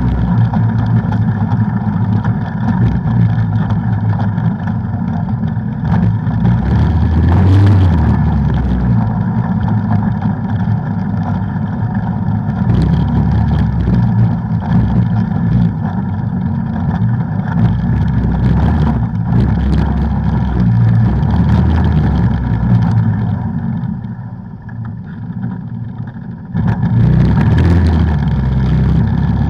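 ATV engine running while riding trails, steady and loud, with rough low-pitched engine noise. It eases off for a couple of seconds near the end, then picks up again.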